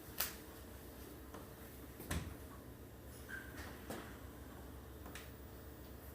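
Quiet room noise with a low hum, broken by four short sharp clicks or knocks spread across a few seconds, and a brief faint high note about halfway through.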